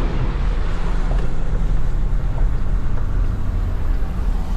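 SRT Jeep's engine and tyres on a wet road, heard inside the cabin: a steady low rumble with an even hiss above it while cruising at a constant pace.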